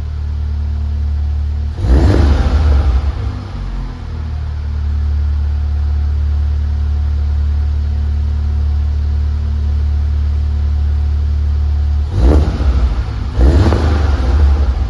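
Seat Leon Cupra 280's 2.0-litre turbocharged four-cylinder idling through a 3-inch downpipe with a Euro 4 cat and a stock exhaust without its middle silencer. The engine is revved once briefly about two seconds in, then twice more in quick succession near the end.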